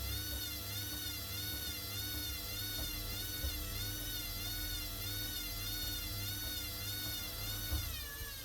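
Hoover WDYNS654D washing machine's motor whining as the drum spins, its pitch wavering up and down regularly a little under twice a second over a low hum, then dying away near the end.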